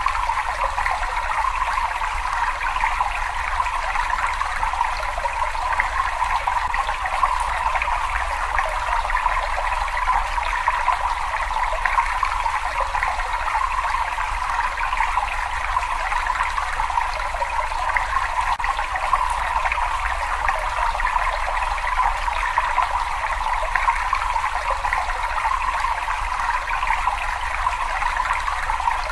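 Steady running water, an unbroken trickling rush with a low rumble underneath, that does not change from start to end.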